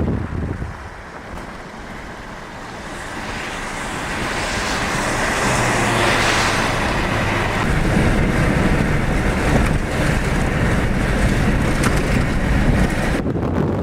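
Rushing noise of a rainstorm with wind buffeting the microphone and a low rumble. It dips about a second in and builds back up over the next few seconds.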